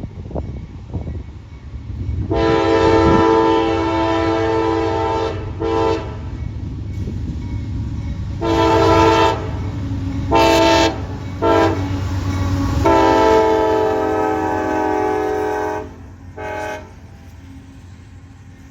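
CSX freight locomotive's air horn sounding a sequence of long and short blasts, a chord of several notes, over the steady low rumble of the passing diesel train. The last blast is a brief tap, and the rumble drops after the horn stops.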